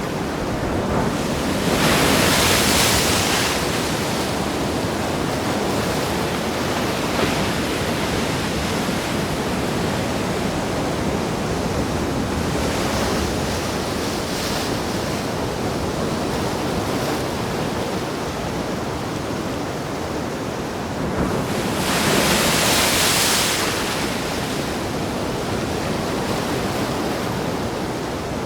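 Sea surf: a steady wash of waves, with two bigger waves surging up, about two seconds in and again about twenty-two seconds in.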